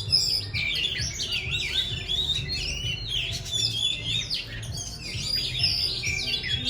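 Oriental magpie-robin singing: a continuous, rapid run of varied clear whistles and chirps, over a low background rumble.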